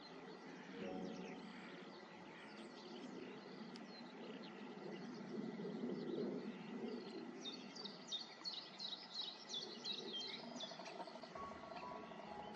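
Small songbirds chirping and singing, with a quick run of high repeated notes a little past the middle, over low outdoor background noise.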